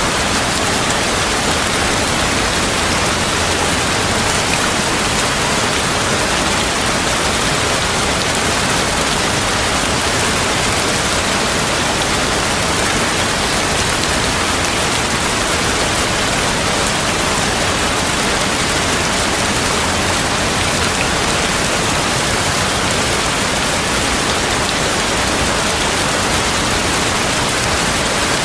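Heavy rain falling steadily, a dense even hiss of drops that neither swells nor fades.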